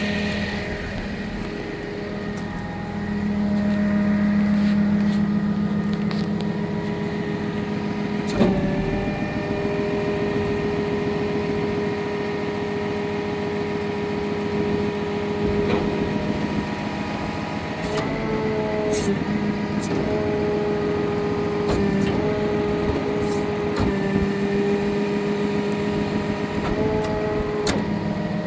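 A 2013 Freightliner bucket truck running on its 6.7 Cummins inline-six turbodiesel, with a steady whine that briefly shifts in pitch a few times, and a few sharp clicks.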